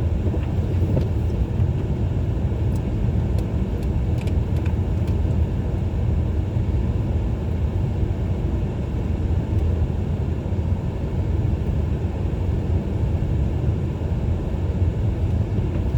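Steady low rumble of a car driving on snowy roads, heard from inside the cabin: engine and tyre noise, with a few faint clicks about three to four seconds in.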